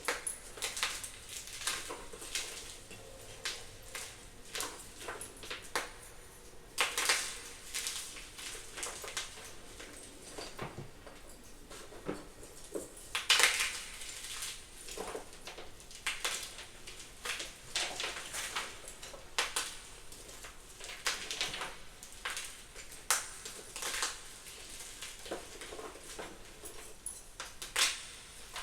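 Blocks of gym chalk being crushed, a run of crisp, irregular crunches about one or two a second, the loudest near the middle.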